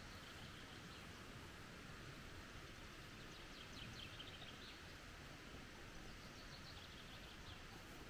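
Faint songbird chirping in quick high runs of notes, about three seconds in and again near the end, over a quiet steady forest hiss.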